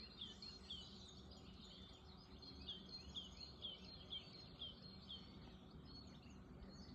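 A bird calling faintly: a string of short, high chirps, each dropping in pitch, about two a second, pausing for a second or so and then resuming, over a faint steady background hum.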